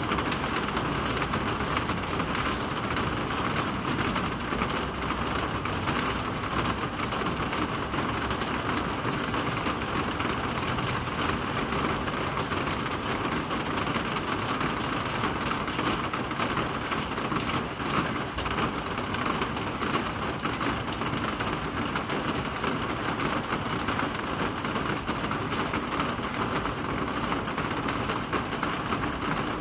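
Steady rain falling: an even hiss with a dense patter of small drop ticks, unchanging throughout.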